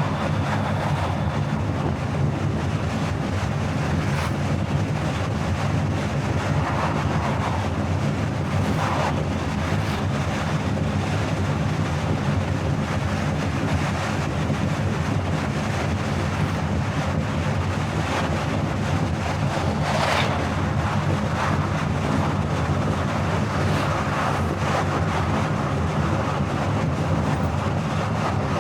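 Steady road and wind noise of a car driving at highway speed, with a low steady drone and a few brief swells of noise.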